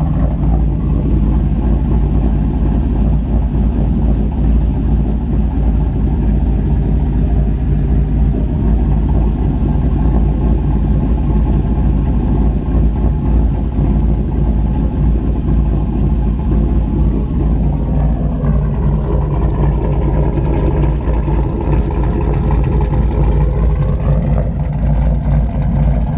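2004 GMC 2500HD's 6.0-litre LS V8, fitted with a Texas Speed and Performance 224/228 camshaft, running steadily with a cam lope. The engine note dips a little about two-thirds of the way through and climbs back near the end.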